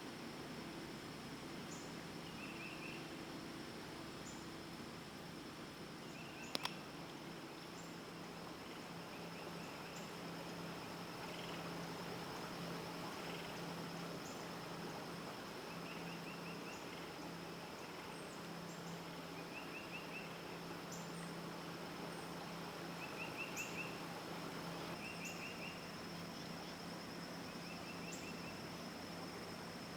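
Insects calling: a steady high-pitched drone with short, rapid pulsed chirps every second or two, over a faint low hum. One sharp click comes about six and a half seconds in.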